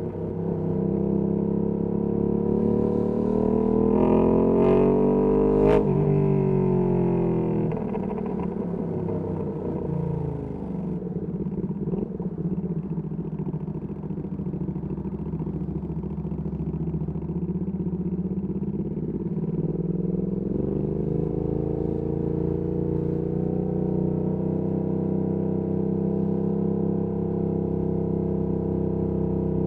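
Ducati Panigale V2S V-twin through a Termignoni exhaust, revs climbing for about six seconds to a peak with a sharp crack, then falling away to low-rev running. The revs rise again about two-thirds through and hold steady.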